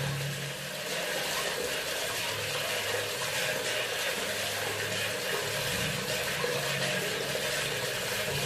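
Bathroom sink faucet running, a steady stream of water splashing into the basin, with a faint low hum underneath.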